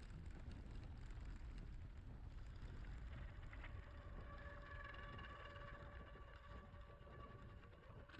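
Faint low wind rumble on the microphone, with a steady held tone coming in about three and a half seconds in; both fade away near the end.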